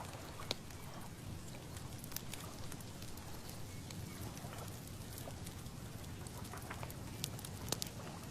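Dry leaves rattling and crackling: scattered, irregular ticks over a low, steady rumble of breeze.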